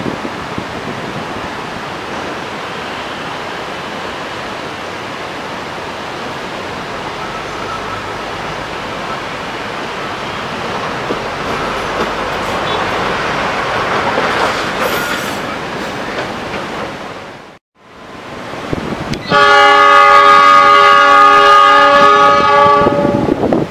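A diesel-hauled train approaching and running beneath, its rumble and wheel noise building for about fifteen seconds. After a short break, a train horn sounds a loud, steady chord of several notes for about four seconds.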